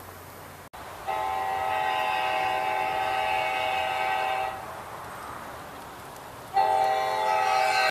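A model train locomotive's electronic horn sounding a chord of several steady tones: one long blast of about three and a half seconds, then a second blast starting near the end.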